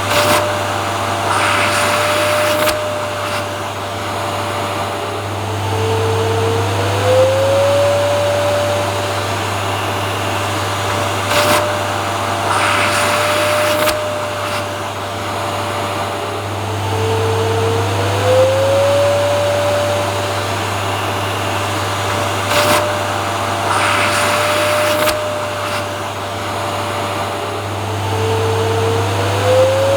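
Vacuum cleaner running steadily, with a low hum and a motor whine that dips in pitch and climbs back about every eleven seconds. A short burst of hiss comes in the same repeating cycle.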